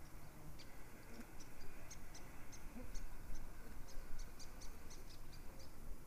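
A small bird giving short, high chirps, repeated irregularly throughout, over a low background rumble.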